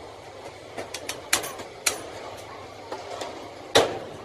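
Irregular sharp taps and clinks of tools and metal pump parts being handled, about seven strokes, the loudest near the end.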